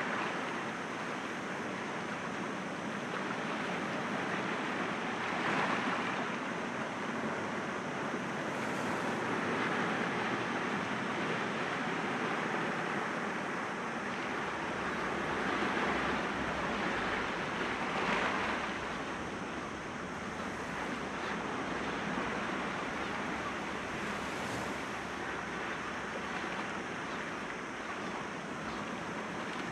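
Sea waves washing gently against rocks: a steady rush of surf that swells now and then, loudest about eighteen seconds in.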